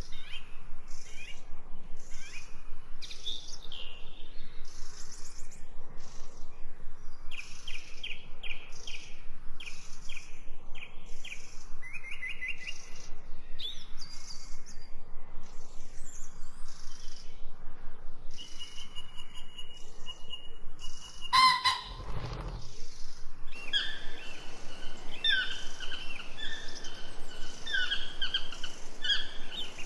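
Wild birds calling: a run of quick, high chirps and trills. About two-thirds of the way through there is a brief sharp sound, and then a different bird's two-toned call repeats over and over.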